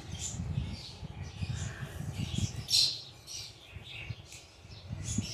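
Pet lovebirds and a cockatiel chirping in short, scattered calls, the loudest about three seconds in, over a low rumble.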